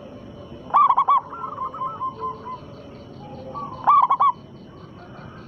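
Zebra dove (perkutut) cooing: two loud, quick phrases of three or four rolling coos, one about a second in and one near the end, each followed by softer trailing coos. Faint high chirps repeat in the background.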